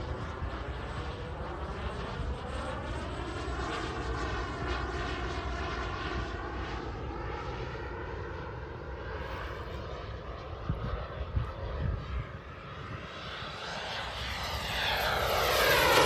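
JetCat P300 Pro turbine of a BVM Desperado RC jet in flight: a steady jet whine and rush that swells and fades as the plane manoeuvres, growing louder over the last few seconds as it comes in for a pass. A few brief low thumps about two-thirds of the way through.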